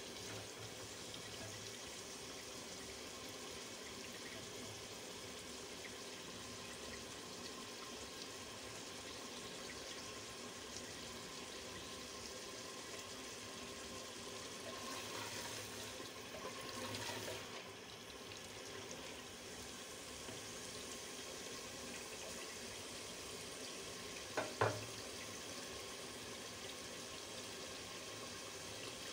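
Beef trotters sizzling steadily in ghee in a clay pot as they are stirred and fried, the bhuna stage of cooking paya. One sharp knock near the end.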